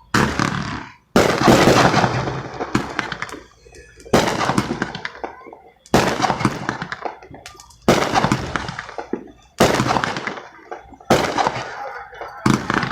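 Fireworks going off one after another: about eight sharp bangs, each followed by a crackling tail that fades before the next.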